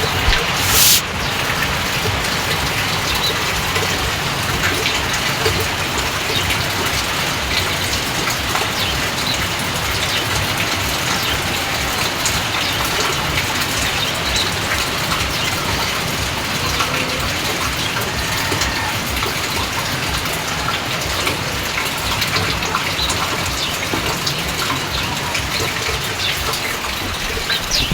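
Rain falling steadily, with scattered drops ticking on surfaces. A brief high-pitched hiss stands out about a second in.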